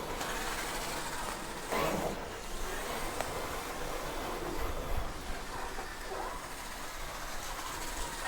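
Toy radio-controlled cars driving: small electric motors running and tyres rolling over the ground, a faint steady noise that swells briefly about two seconds in.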